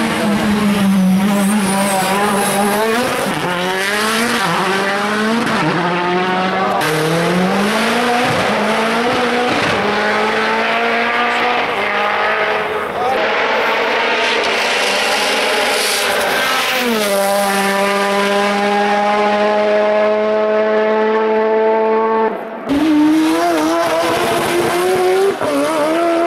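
Hill-climb rally car engine at hard throttle, its pitch climbing and dropping again and again through quick gear changes, then held at a steady high note for several seconds. The engine drops out briefly near the end and comes back.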